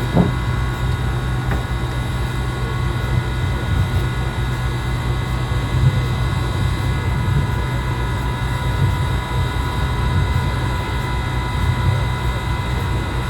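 Steady low engine rumble with a constant high whine, like a large vehicle idling, with a brief knock right at the start.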